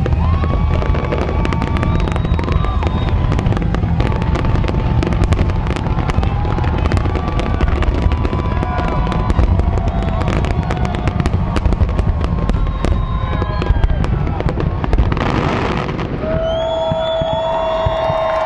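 Fireworks going off in a dense barrage: rapid crackling and popping over a continuous low booming, with many short rising and falling whistling tones. About 16 s in, a steady held tone starts and runs on through the end.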